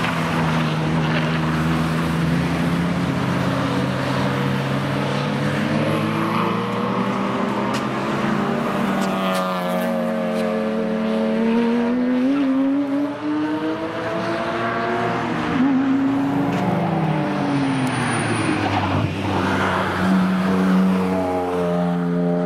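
Several cars driving hard past on the Nürburgring Nordschleife, engines at high revs, their pitch rising and falling as they accelerate, change gear and pass.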